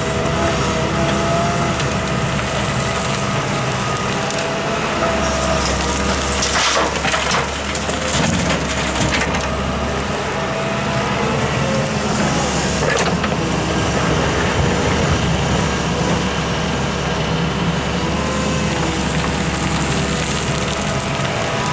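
Excavator's diesel engine running steadily under load, with a whine from the hydraulics. Twice the bucket scrapes and crunches through earth and rock: about six to seven seconds in and again around thirteen seconds.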